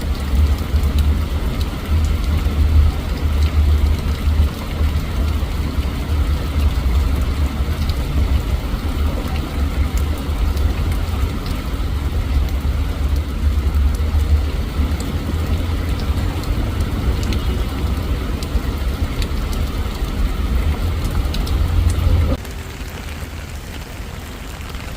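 Steady, loud low rumble with a faint hiss over it, which drops away suddenly near the end.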